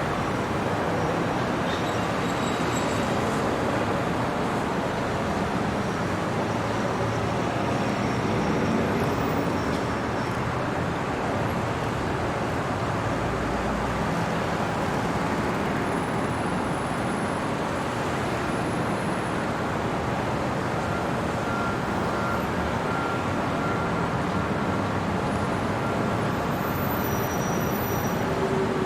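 Steady city traffic noise at night: a continuous wash of road vehicles with no single event standing out.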